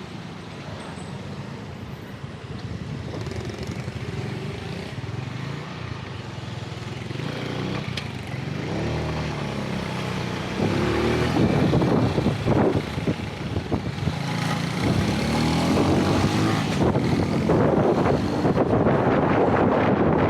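Road traffic: car and motorcycle engines running close by, louder about halfway through, with engine pitch rising and falling as vehicles pull away and pass.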